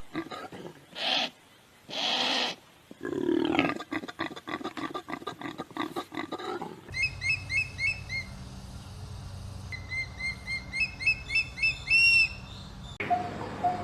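Wild animal calls: two harsh, rasping calls, then a rapid run of short grunts, followed by a bird's quick repeated chirping notes.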